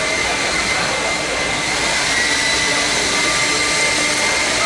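Steady, even rushing noise with a thin high whine running through it.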